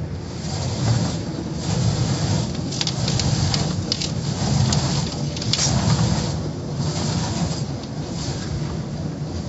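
Automatic car wash in operation: a steady low machinery rumble with irregular surges of hissing water spray.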